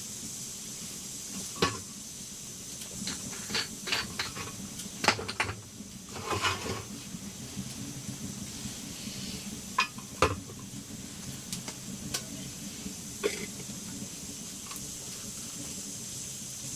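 Utensils and cookware knocking and clinking, a dozen or so sharp separate knocks, the loudest about five and ten seconds in, over a steady hiss.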